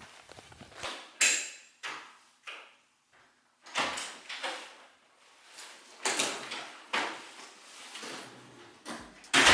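A string of separate knocks, bumps and rustles with short quiet gaps between them, like things being handled and doors or drawers moved in a small room.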